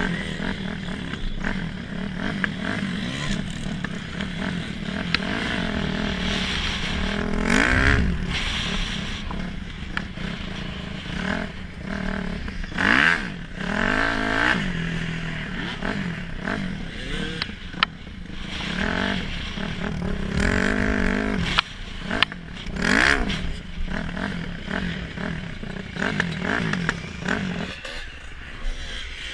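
Dirt bike engines being ridden, their pitch rising and falling as the throttle is opened and closed. Several loud bursts of revving.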